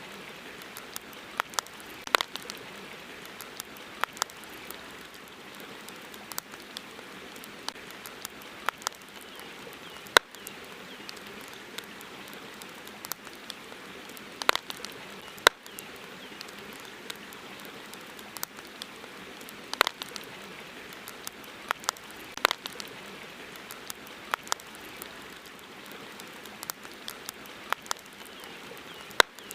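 Wood campfire crackling: irregular sharp pops and snaps, several every few seconds, over a steady hiss.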